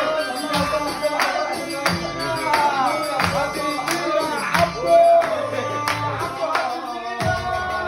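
Live Egyptian shaabi band music: an ornamented, gliding melody over a steady beat of drums and tambourine-like hand percussion.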